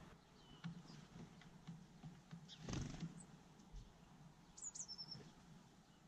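Faint, high-pitched bird chirps, with a short run of calls about three-quarters of the way through. One soft thud near the middle.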